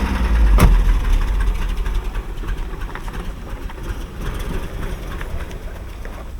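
Mercedes-Benz W123 engine running, loudest at first and then falling away, with a sharp click about half a second in. The engine has a knock that the owners put down to failed main bearings rather than the connecting-rod bearings.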